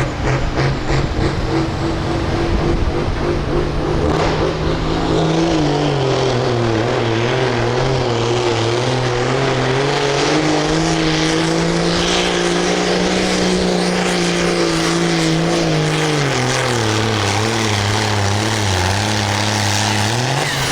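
Farm tractor engine working hard under load while pulling a sled. Its pitch dips and recovers: it sags about five seconds in, climbs back over the next several seconds, sags again near the end of the run and then picks up.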